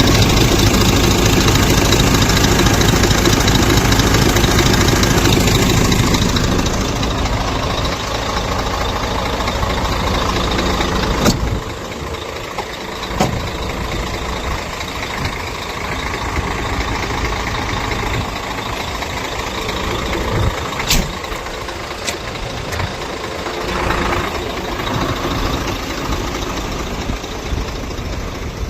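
Scania truck's diesel engine running, louder for the first six seconds, then settling lower with its deep rumble falling away about halfway through. A few sharp clicks or knocks stand out, twice near the middle and twice later on.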